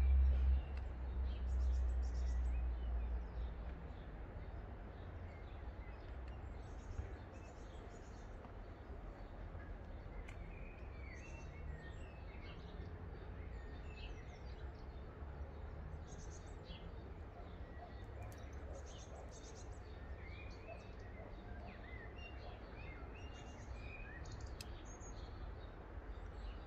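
Small birds chirping and twittering in short, scattered calls over a steady low rumble, the rumble louder for the first few seconds and then easing.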